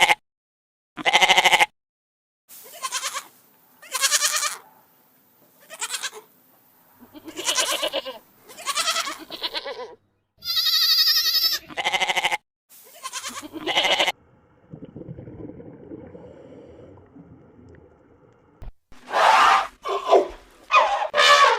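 Repeated animal bleating: about a dozen short, separate calls with gaps between them, and a quieter stretch of low noise between the later calls.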